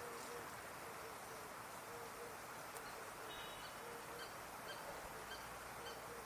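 Birds calling: a run of short, low hooting notes repeated throughout, joined about three seconds in by a regular series of short, high chirps, about two a second, over a steady outdoor hiss.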